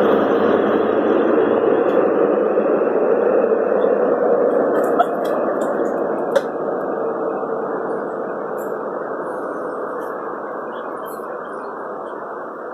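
Class 43 HST diesel power cars and train pulling away from the platform: a steady rumble of engine and wheels that slowly fades as the train leaves, with a couple of faint clicks midway.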